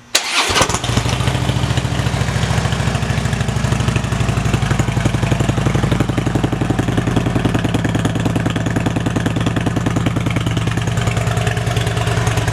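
2013 Harley-Davidson Electra Glide Ultra Classic's air-cooled V-twin, fitted with an aftermarket exhaust, starting up within the first second and then idling steadily.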